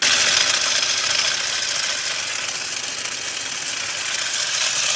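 Ridgid K9-204 Flex Shaft drain cleaner, driven by a cordless drill, running steadily with its cable spinning inside a root-clogged sewer line; the loud, even rattling noise starts abruptly.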